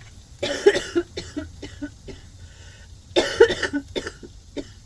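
A woman with a cold coughing in two fits, the first about half a second in and the second about three seconds in, each a run of several harsh coughs that trail off into smaller ones.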